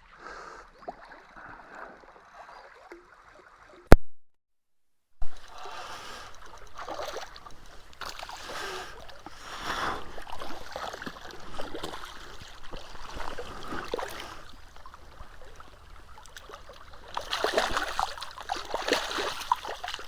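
River water splashing and running, with irregular splashes that grow louder near the end. A sharp click about four seconds in is followed by a second of dead silence.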